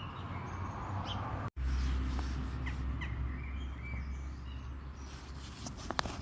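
Outdoor birds chirping with short calls, over a low rumble of wind on the microphone; the sound drops out for an instant about a second and a half in, and there are a couple of sharp clicks near the end.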